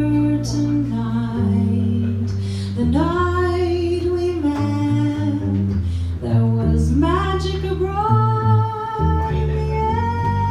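A jazz quintet playing a slow ballad: a melody in long held notes over piano, bass and drums.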